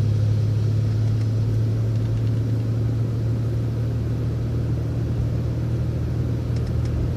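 City transit bus driving, its engine and drivetrain giving a steady low drone.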